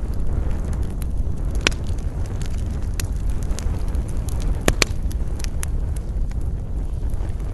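Campfire burning, with scattered wood crackles and a few sharper pops, over a steady low rumble of wind.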